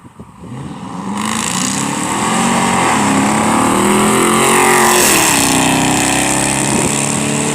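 V8 exhaust of a 2019 Dodge Charger Daytona with its mufflers deleted, driving by under acceleration. It swells up loud within the first second and rises in pitch, dips briefly about three seconds in, climbs again, then drops in pitch after about five seconds.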